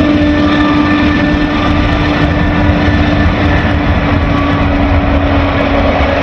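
Freight train passing close by: a low rumble of rolling cars under a diesel locomotive's steady pitched drone, which fades near the end.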